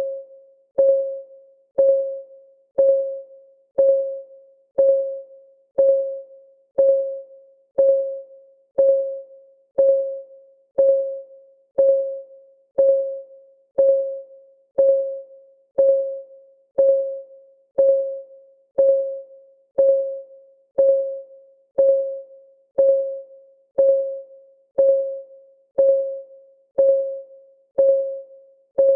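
Timer's clock ticking sound, one tick per second. Each tick is a sharp click with a short pitched ring that fades before the next.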